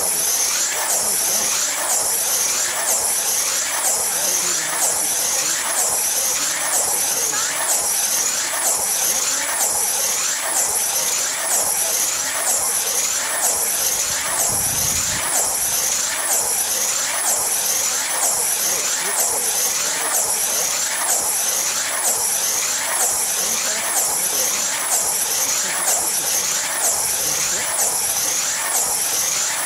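Electric tether race car running flat out around the tether circle. Its high motor whine rises and falls in a steady repeating cycle as it laps, with a brief low rumble about halfway through.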